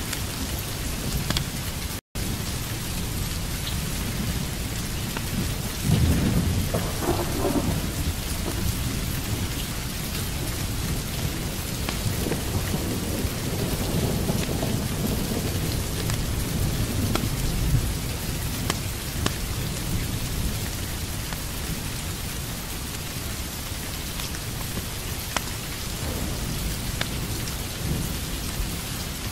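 Steady heavy rain with thunder rolling in low rumbles, one about six seconds in and a longer one in the middle. The sound cuts out for an instant about two seconds in.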